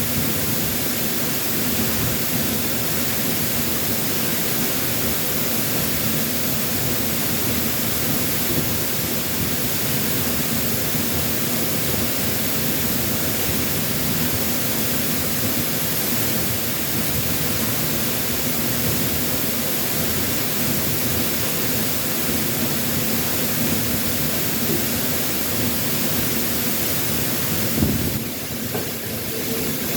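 Waterfall with a steady, unbroken rush of falling water. Near the end there is a single brief knock, and for a moment afterwards the rush sounds a little quieter and duller.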